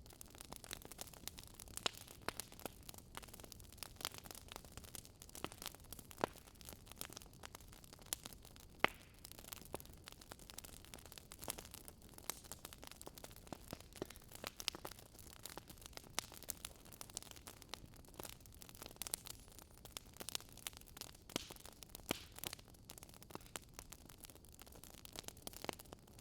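Burning wood fire crackling and popping, with irregular sharp snaps over a soft steady hiss.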